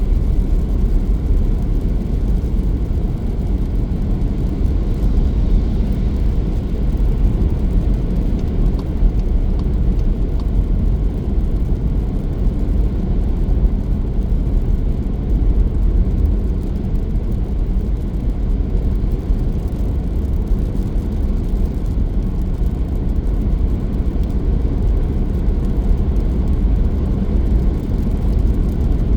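Car driving at steady speed: a continuous low rumble of road and engine noise that stays even throughout.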